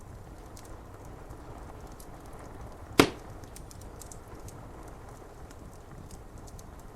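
Wood fire crackling: scattered faint crackles over a steady low rush, and one loud sharp pop about three seconds in.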